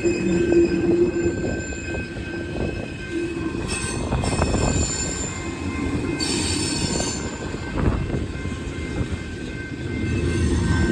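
Coal train cars rolling past with a steady rumble and rapid clatter of wheels on the rails. High-pitched wheel squeal flares twice, about four and about six and a half seconds in.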